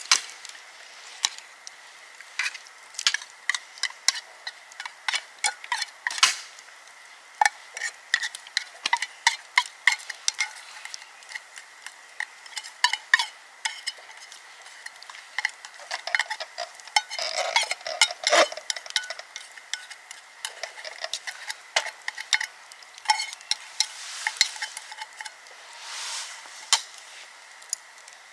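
Camp cooking: a utensil tapping, clicking and scraping against a pan in an irregular run of sharp strokes, with brief stretches of sizzling. A faint steady high tone runs underneath.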